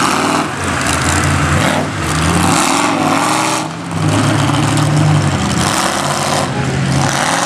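A mud truck's engine revving, its pitch rising and falling several times.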